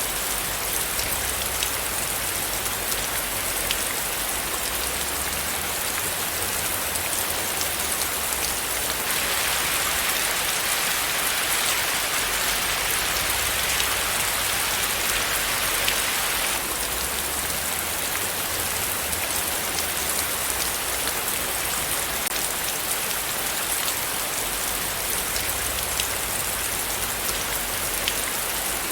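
Steady rain falling, with many small drop ticks throughout. From about nine seconds in, for some seven seconds, it grows a little louder and hissier before settling back.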